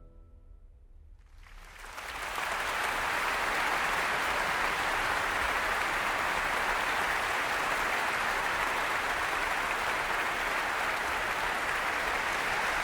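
The orchestra's last note dies away, and about a second and a half in an audience breaks into applause. It builds quickly and then holds at a steady level.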